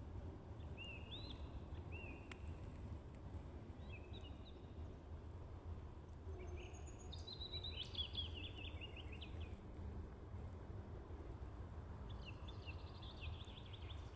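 Songbirds singing in a forest: short bouts of high chirps and quick trills, busiest about seven to nine seconds in, over a low steady rumble.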